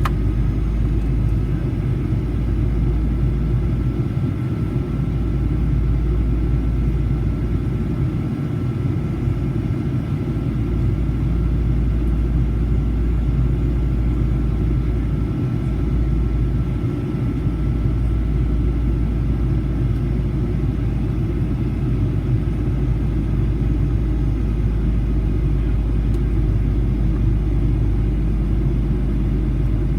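Steady low rumble of a Boeing 737-800's passenger cabin: engine and airflow noise, with a faint steady high whine through most of the first twenty seconds.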